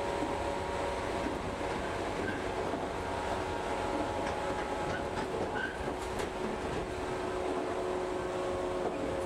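Inside a moving local train: a steady running rumble with a few held tones from the train's machinery, and a few sharp clicks of the wheels about halfway through.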